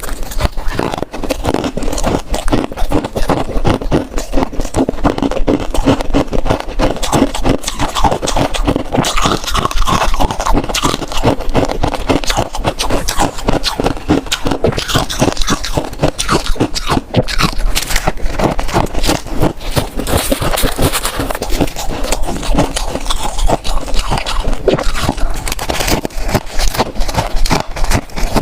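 Close-miked chewing of freezer frost: a dense, unbroken run of crisp crunches and scrapes.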